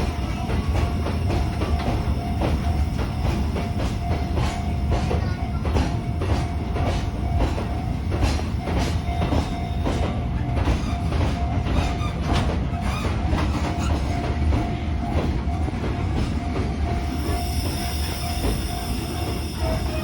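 Chichibu Railway electric train running past: a steady low rumble with rapid clicking of the wheels over rail joints, busiest midway through.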